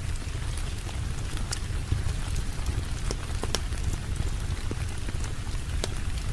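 Steady rain falling, with a deep low rumble underneath and a few scattered sharp pops and clicks.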